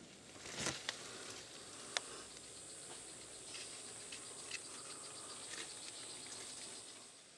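Rainforest ambience: a steady high-pitched insect drone, with scattered sharp clicks and crackles, loudest about half a second and two seconds in.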